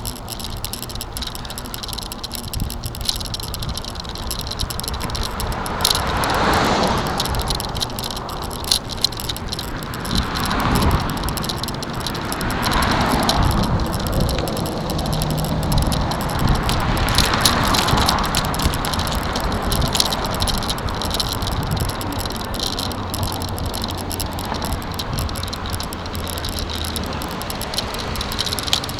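A bicycle rattling steadily as it is ridden, with several swells of rushing noise that rise and fade.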